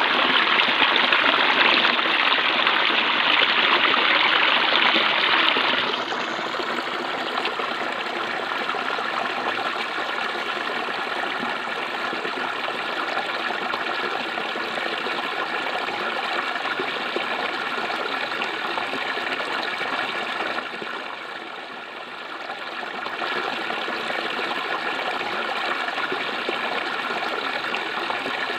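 Clear water flowing and babbling, a steady rush that is louder for about the first six seconds, then settles a little quieter, with a brief dip about two-thirds of the way through.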